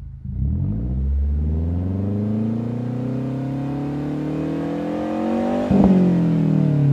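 Mazdaspeed3's turbocharged 2.3-litre four-cylinder revved through a Cobb catback exhaust. The engine pitch climbs slowly for about five seconds. Near the top there is a sharp crack, and the revs then fall away, louder.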